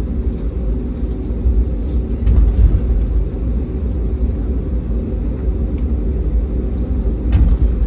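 Cabin noise of an Airbus A321neo taxiing after landing: a steady low rumble of engines and rolling gear with a steady hum, and a couple of light clicks, the second near the end.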